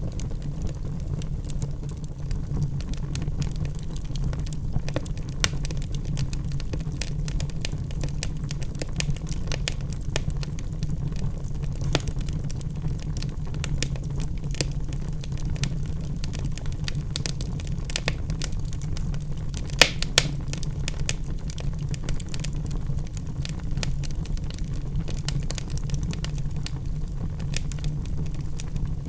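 Wood fire burning in a fireplace: irregular crackles and small pops over a steady low rumble, with two sharper snaps about two-thirds of the way through.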